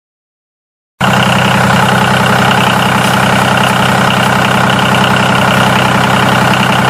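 An engine idling steadily. It starts suddenly about a second in, after a second of dead silence, and keeps an even, unchanging note.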